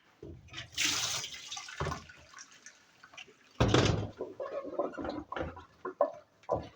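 Water splashing and pouring in irregular bursts, with short knocks and clatter of handling in between.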